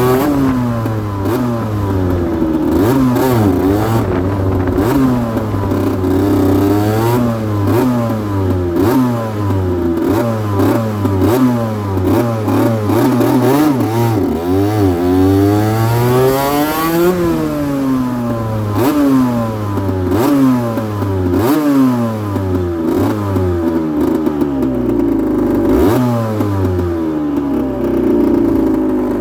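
2008 Aprilia RS125's 125 cc single-cylinder two-stroke engine revved over and over in quick blips, its pitch rising and falling about once a second. It gives one longer, higher rev about seventeen seconds in.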